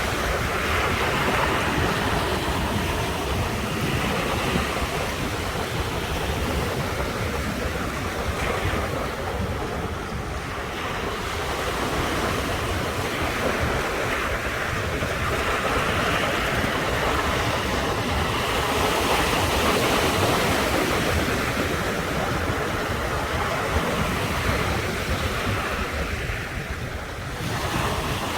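Ocean surf breaking and washing on the shore, a continuous rush that swells and eases as the waves come in, with lulls about a third of the way through and near the end.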